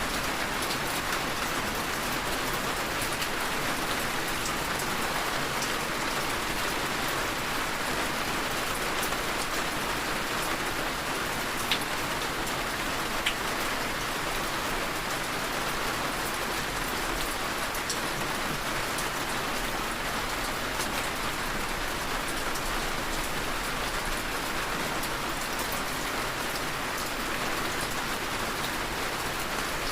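Heavy, steady rain falling on surfaces, with a few distinct drop ticks, two of them louder about halfway through.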